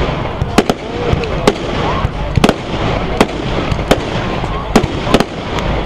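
Fireworks display: about ten sharp bangs and cracks at irregular intervals, over a steady rumble of distant bursts and crowd voices.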